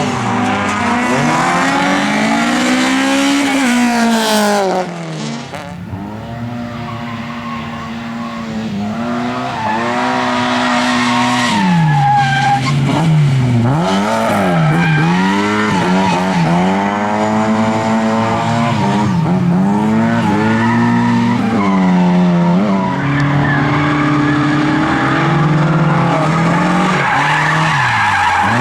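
Lada race car engines running hard, their pitch repeatedly climbing and dropping as they rev up and shift gear, with some tyre squeal. The sound dips quieter about five seconds in and builds again a few seconds later.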